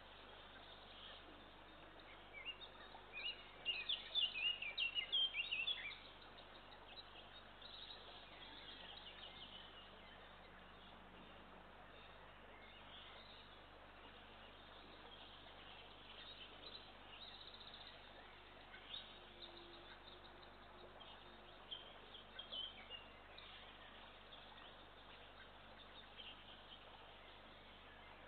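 Small birds chirping high and quickly over a steady hiss, with a dense, louder flurry of chirps about three to six seconds in and scattered chirps after.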